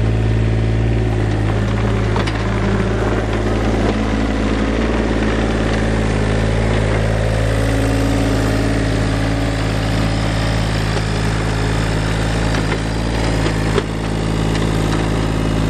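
Mini excavator's diesel engine running steadily, with a couple of faint clicks from the machine being worked.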